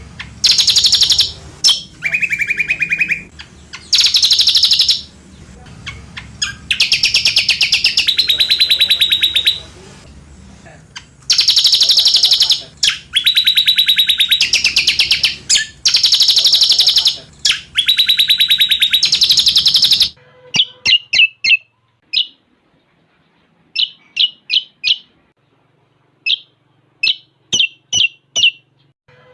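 Cucak combok song with cililin-style fills, used as a tutoring recording: loud, fast, high trills in one- to two-second bursts, one of them noticeably lower. About twenty seconds in, these give way to quick clusters of short, sharp chirps.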